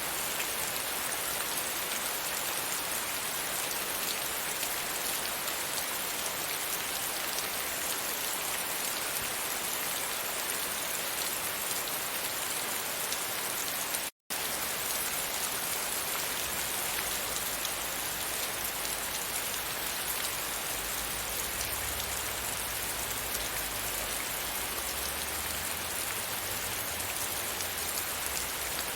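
Steady rain pattering against a window pane, a dense even hiss of drops. The sound cuts out completely for an instant about halfway through, then carries on unchanged.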